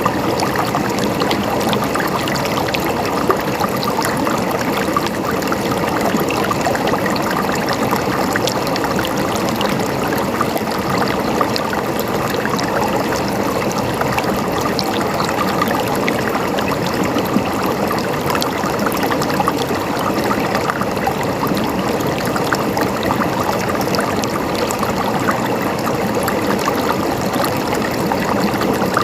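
Running water gurgling and splashing steadily, a dense continuous patter of small splashes like a stream flowing over stones.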